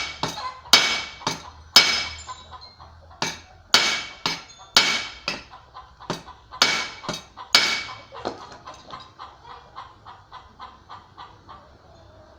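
Hammer blows on the end of a brush cutter's drive shaft, peening it out into a new lip so that it stops slipping inside the gearbox. Sharp, ringing metal strikes come about once or twice a second, then from about eight seconds in a run of lighter, quicker taps.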